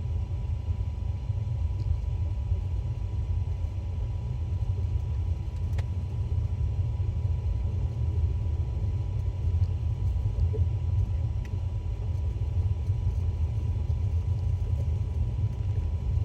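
Steady low road and tyre rumble inside the cabin of a 2018 Tesla Model S 75D, an electric car with no engine note, cruising at a constant speed. A faint steady high tone runs under the rumble.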